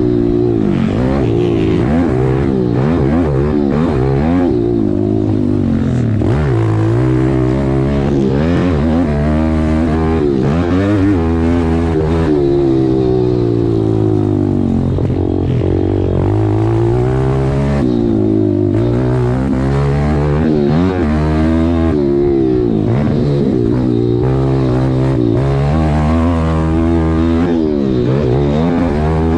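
Single-cylinder four-stroke pit bike engine being ridden hard, its pitch climbing and dropping every few seconds with throttle and gear changes.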